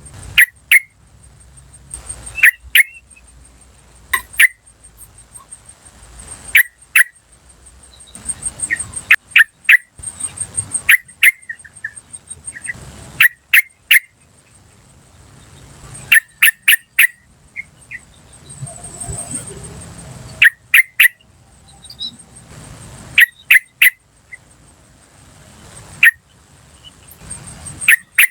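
Yellow-vented bulbul (trucukan) giving its sharp 'cuk cuk' call notes in quick clusters of two to four, repeated every second or two.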